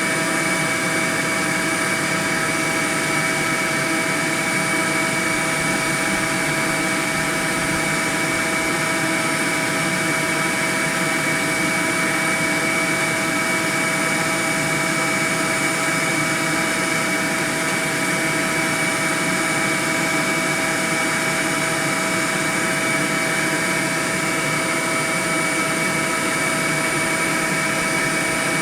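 Swarm of honeybees buzzing: a steady, dense drone of many bees in flight, unchanging throughout.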